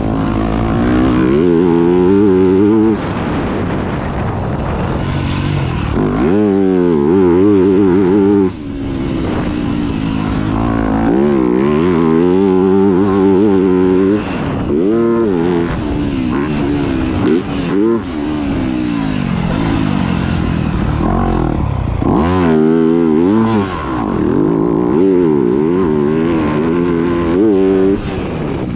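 Yamaha YZ250F four-stroke single-cylinder motocross engine ridden hard, revving up and down in quick wavering swells as the throttle is worked. The sound drops off sharply several times when the throttle is shut, then picks up again.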